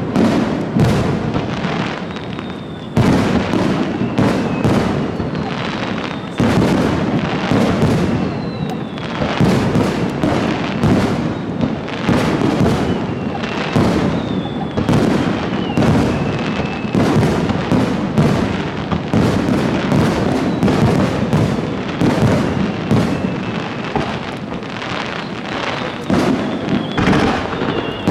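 Fireworks display: a dense barrage of aerial shell bursts in rapid succession, booming and crackling without pause, with faint high whistles gliding down in pitch between the bangs.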